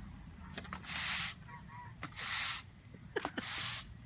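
Three short hissing bursts, each about half a second long and about a second apart.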